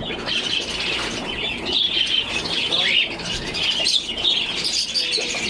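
Many caged pet birds in a bird shop calling at once: a dense, continuous chorus of chirps and chatter with no pause.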